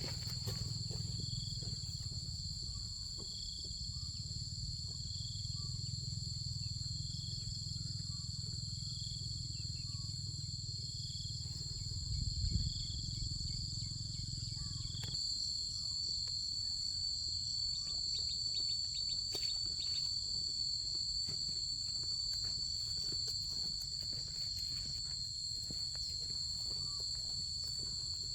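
Insects droning steadily as a high, continuous whine. For the first half a short note repeats about every 0.6 s, over a low rumble that stops about halfway through.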